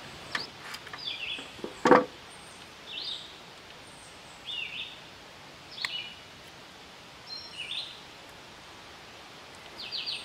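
A bird chirping repeatedly in short, high calls every second or two, with a sharp knock about two seconds in and a few lighter clicks from parts being handled.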